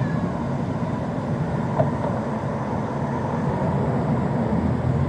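A steady low rumble, with a single short tap about two seconds in.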